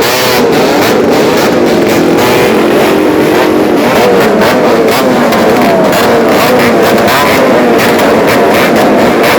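Many motorcycles with open, unmuffled exhausts revving at once, their pitches rising and falling over one another in a loud, continuous din.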